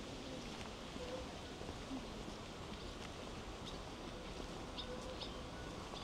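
Faint outdoor ambience with a few short, high bird chirps, mostly in the second half.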